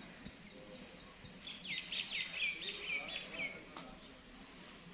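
A bird singing a quick run of high, repeated chirping notes for about two seconds, starting about a second and a half in, over faint background noise.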